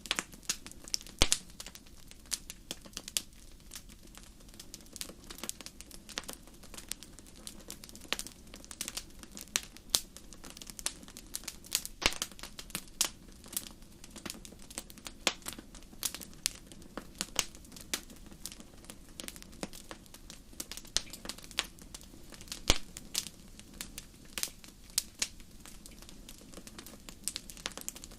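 Wood fire crackling in a fireplace: irregular sharp pops and snaps over a faint low steady rush of burning.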